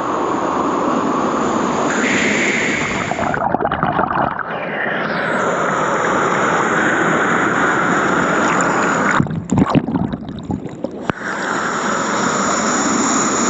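Waterfall pouring into a pool, a steady rush of falling water. Twice it turns muffled and duller for a second or two, once a few seconds in and again around the ninth to eleventh second.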